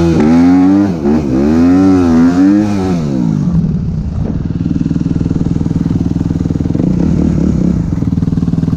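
Suzuki RM-Z 250 single-cylinder four-stroke with an open Akrapovič exhaust pulling away at full throttle, its pitch climbing and dropping several times over the first three seconds. It then settles into a steady, lower running note.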